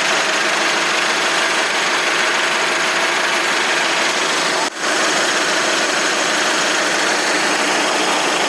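Steady, dense running noise of snack-food processing line machinery, with a brief dip a little past halfway.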